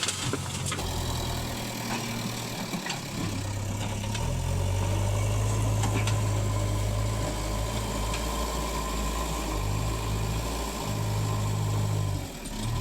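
Diesel engines of a backhoe loader and tractors running, the low engine note rising under load about four seconds in, then dipping and coming back a few times, with a few scattered knocks.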